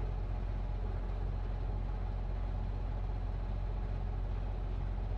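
Semi truck's diesel engine idling steadily, a low even hum with no change in pitch.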